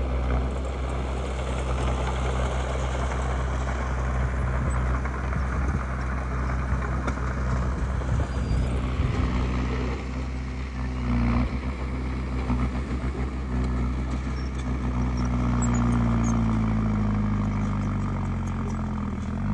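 Komatsu D20P bulldozer's diesel engine running steadily while working soil; in the second half the engine pitch shifts and sags toward the end.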